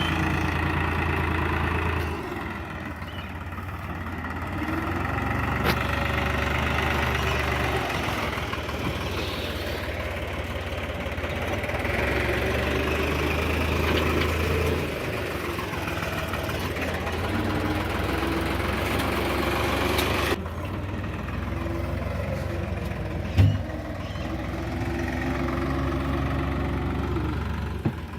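Powertrac 4455 BT tractor's diesel engine running while hauling a heavy trolley, its engine note rising and falling several times. A single short thump about 23 seconds in.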